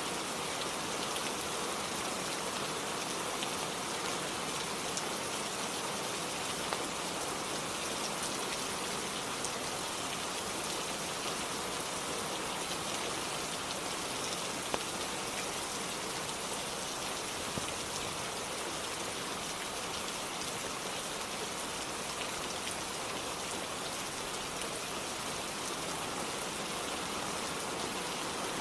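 Steady rainfall, an even hiss of rain on a roof, with a few faint ticks scattered through it.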